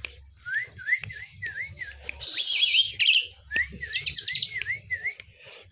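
Asian pied starling (jalak suren) singing: a run of quick dipping whistled notes, about three a second, broken by a loud harsh rasping burst about two seconds in and a shorter one near four seconds.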